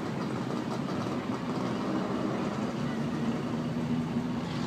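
Vintage car engine running steadily.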